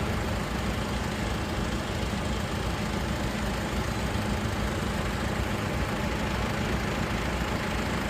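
Several tractor engines running steadily together, an even low engine drone with no single event standing out.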